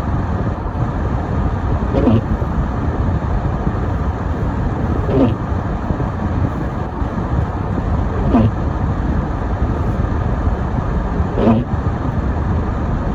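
Car driving on a snowy road: steady road and engine noise, with a short sweeping sound repeating about every three seconds.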